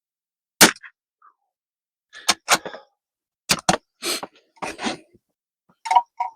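A single shot from a CZ 457 MTR rimfire rifle about half a second in, sharp and loud, followed by a string of shorter mechanical clicks and rattles and a few small ticks near the end.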